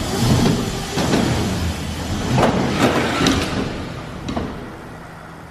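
Small dirt bike running and clattering, with several sharp knocks and thumps, then its engine dying and the noise fading away about four seconds in: the bike has stalled.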